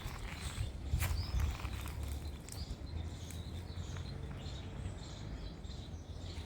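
Faint small-bird chirps over a low steady rumble, with a few sharp clicks.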